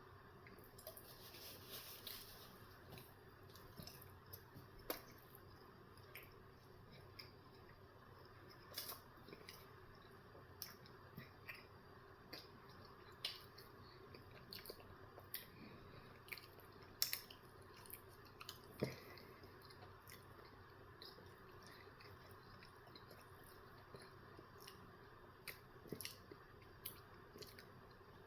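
Faint mouth sounds of a person chewing a breakfast sandwich: scattered short wet clicks and smacks over a low steady hiss.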